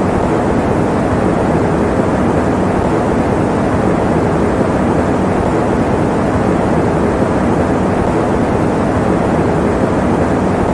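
A fan running steadily, giving an even rush of air that is strongest in the low and middle range, with little high hiss.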